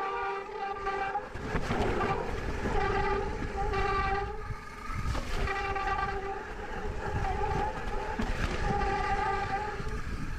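E-mountain bike disc brakes squealing, a high pitched squeal held in several long stretches with short breaks as the brakes are applied on the descent, over tyre and wind rumble. The pads are worn down to metal on metal.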